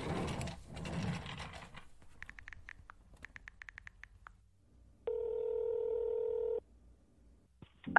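Phone being handled with a rustle, then a quick run of short beeping keypad presses, then a single steady ringing tone about a second and a half long: a phone call being dialed and ringing out.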